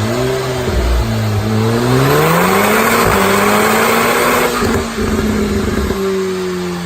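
Remapped Audi TTS turbocharged four-cylinder pulling hard on a rolling-road dyno, its pitch climbing, then dropping sharply at a DSG gearbox upshift about three seconds in. A little later the throttle is lifted and the engine note sinks slowly, with pops and crackles from the exhaust on the overrun.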